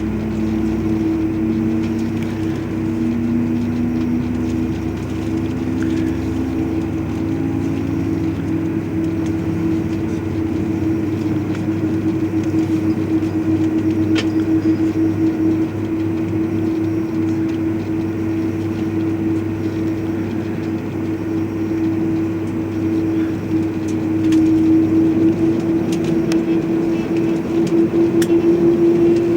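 General Electric CF6 turbofan engines of an Airbus A330-300 during start-up, giving a steady whine. A second, lower whine rises in pitch over the first several seconds as an engine spools up, and the sound grows slightly louder near the end.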